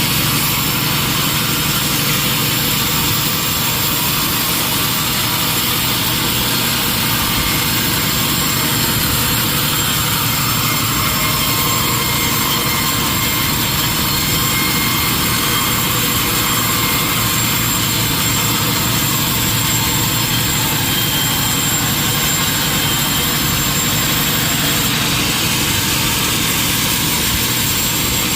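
Sawmill machinery running steadily: a loud, even mechanical noise with no breaks.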